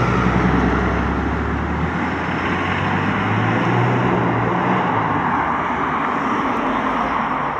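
A car engine running at low revs: a steady low drone that weakens about two seconds in, over a constant background hum.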